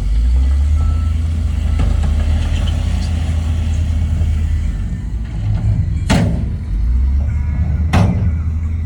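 Heavy diesel earthmoving machinery running with a deep, steady engine rumble, and two sharp metallic clanks about two seconds apart near the end.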